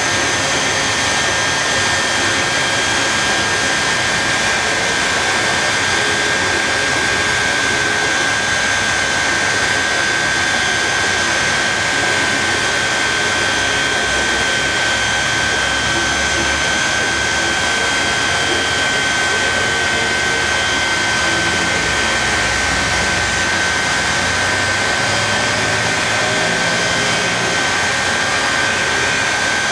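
Shockwave jet-powered semi truck's three jet engines running steadily, a loud even rush of exhaust with a constant high whine.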